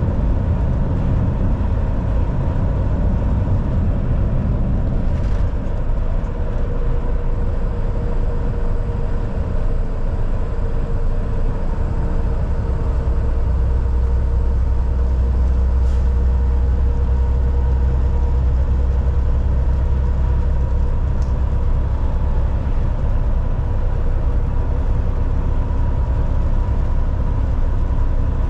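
Volvo VNL 760 semi truck cruising on the highway: steady engine drone and road noise, with a deeper low rumble swelling for several seconds about midway.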